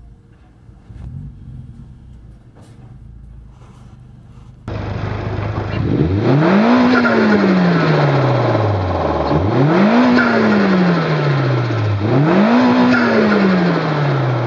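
Nissan SR20DET turbocharged inline-four engine idling, then about a third of the way in it gets much louder and is revved three times. Each rev rises quickly and falls back slowly toward idle.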